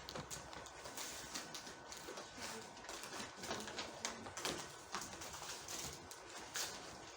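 Room noise: scattered light clicks, taps and rustles at irregular moments, with a faint steady high-pitched tone underneath.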